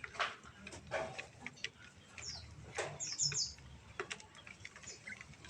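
Small songbirds in an aviary giving short, high chirps, including a quick cluster about three seconds in, among several sharp clicks.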